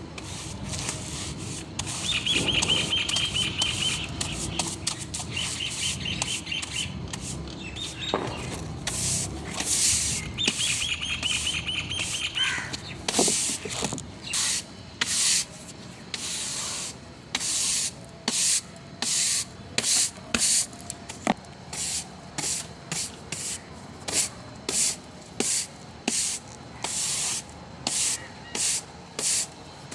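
Household cleaning: short hissing strokes, about one a second through the second half, with a bird chirping in quick trills during the first half.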